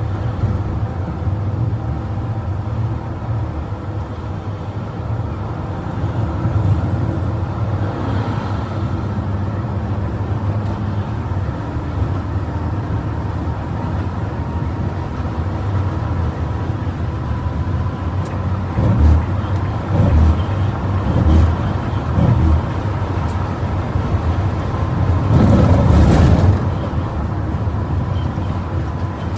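Bus running at highway speed: a steady engine and road drone, with a few short low thumps in the second half and a louder rushing surge lasting about a second near the end.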